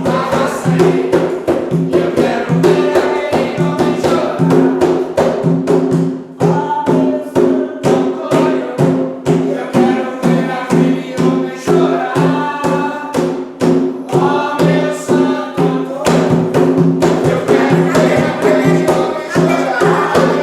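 Ritual chant sung by a group over steady, fast hand drumming, the drum strikes keeping an unbroken rhythm throughout.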